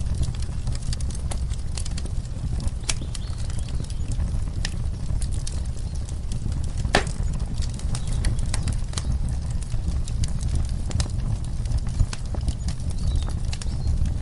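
Wood fire in a fireplace crackling, with irregular sharp pops and snaps over a steady low rumble. One louder pop comes about halfway through.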